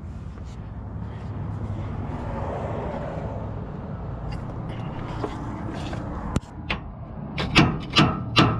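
Scraping and rubbing while working on a car's front suspension. About six seconds in it gives way to a run of sharp metallic clanks of parts and tools, about half a second apart.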